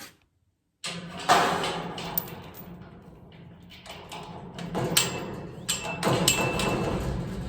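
Metal clanking and scraping during fabrication work, with several sharp knocks and a short ringing tone about six seconds in.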